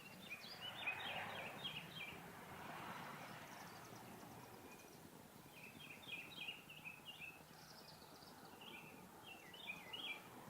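Faint, rapid high chittering calls of a flock of chimney swifts circling overhead, in clusters near the start and again through the second half.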